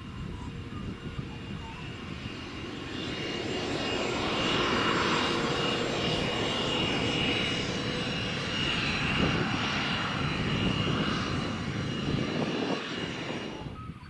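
Cessna CJ1 business jet's twin turbofan engines at takeoff power: a rushing roar with a steady high whine that builds over the first few seconds, holds loud, then drops away abruptly near the end.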